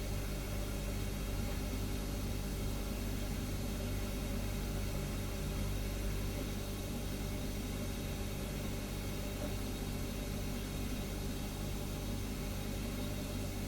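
Refrigerator humming steadily: a low hum made of several steady low tones over an even hiss, unchanging throughout.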